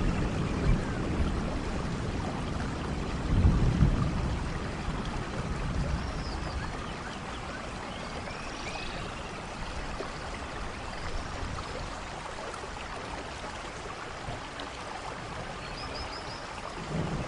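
Steady rain with low rolls of thunder in the first few seconds, easing to rain alone, then thunder rumbling up again near the end.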